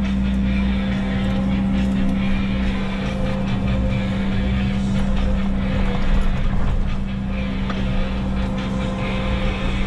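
Diesel engine of a Menzi Muck walking excavator running steadily with a constant hum and low rumble, with a few light knocks from the machine at work.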